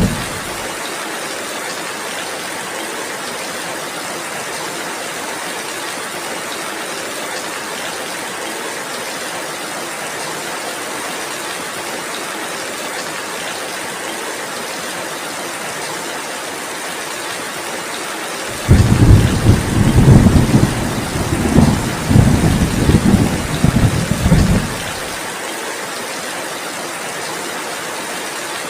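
Steady heavy rain hissing, with a rumble of thunder rolling in several swells for about six seconds starting around two-thirds of the way through. The tail of an earlier rumble dies away just at the start.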